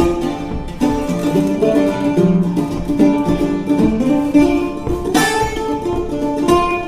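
Mandola played instrumentally: a run of plucked melody notes, with a fuller strummed chord about five seconds in.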